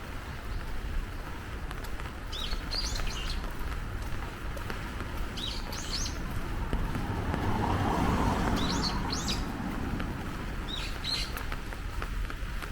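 A small bird calling in four short bursts of quick, rising chirps, about every two to three seconds, over a steady hiss of rain. A broad rush of lower noise swells and fades around the middle.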